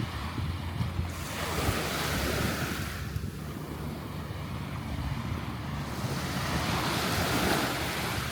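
Gulf of Mexico surf washing up the beach, rising in two rushing swells, with wind buffeting the microphone.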